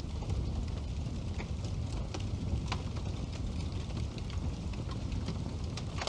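Wood fire burning in a fireplace: a steady low rumble from the flames, with sharp crackles and pops from the burning logs every second or so at irregular times.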